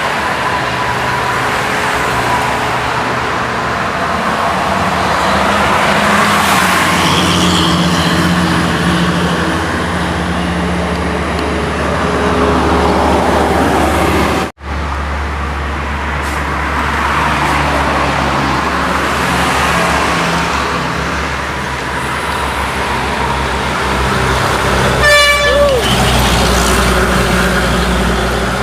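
Heavy trucks and buses running past on a toll road, a steady engine and road noise that cuts out for an instant about halfway. About 25 seconds in, a vehicle horn sounds one short blast that falls in pitch at its end, the loudest moment.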